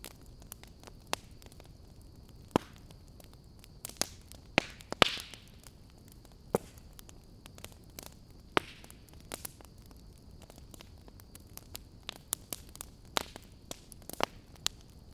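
Wood fire crackling: irregular sharp pops from the burning wood over a low hiss, the loudest pops around five seconds in, with a faint steady high whine underneath.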